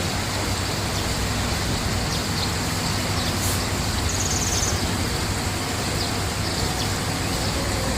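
Steady rushing, water-like noise with a low hum underneath, with a few faint short high bird chirps around the middle.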